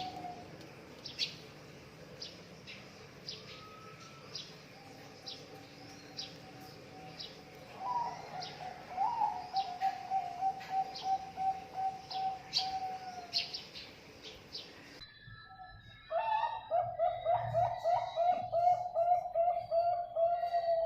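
Zebra doves (perkutut) cooing: phrases of quick, rapidly repeated coo notes that each open with a short rising note, while small birds chirp high-pitched in the background. About 15 s in the recording cuts to a cleaner, louder perkutut phrase of fast coo notes.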